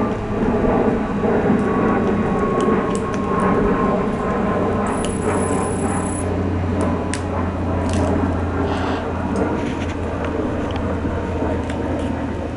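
A steady mechanical rumble, like motor traffic, with a faint tone that slowly falls over the first half, and scattered sharp cracks over it.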